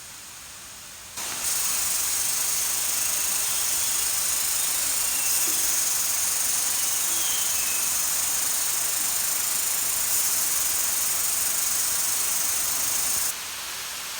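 Steady rushing hiss of falling water from a waterfall. It comes in suddenly about a second in and drops suddenly near the end.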